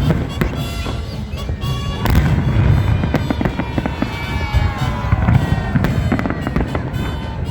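Fireworks salute: a dense run of booming firework bursts and crackling bangs, with music playing along.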